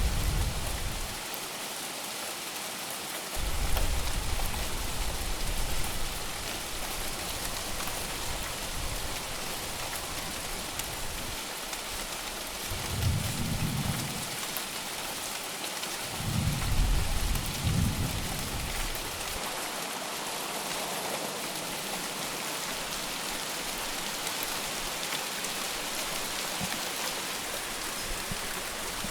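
Heavy rain falling steadily, with low rolls of thunder rumbling four times: near the start, a few seconds in, and twice more around the middle.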